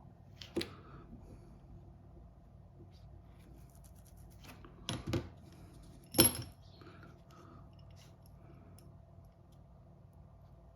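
A few sharp clicks and knocks, the loudest about six seconds in, from small repair tools and phone parts being handled on a work surface.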